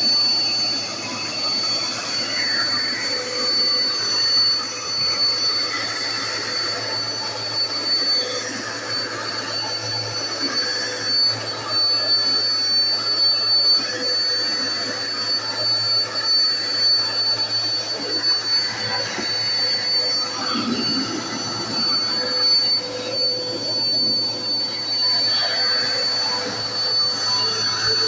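Dirt Devil Endura Lite bagless upright vacuum cleaner running steadily, with a constant high-pitched whine over the motor's noise.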